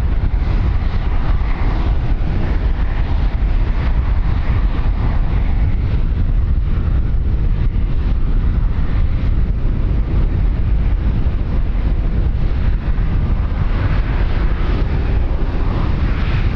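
Wind buffeting the microphone: a steady, loud low rumble with no break.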